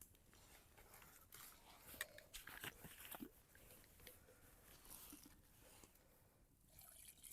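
Near silence with faint, scattered crackles and clicks from a small campfire, a little cluster of them about two to three seconds in.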